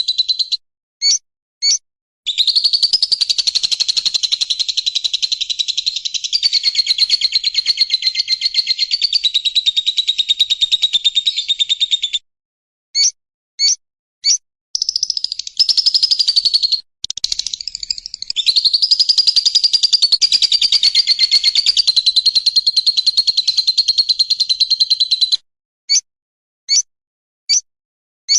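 Recorded songbird song used as training audio for caged songbirds: two long, rapid, buzzy trills of about ten seconds each, pitched high and wavering slightly. Short single high notes sound between them and several more come near the end.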